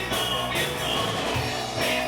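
Rock music played by a band, with singing.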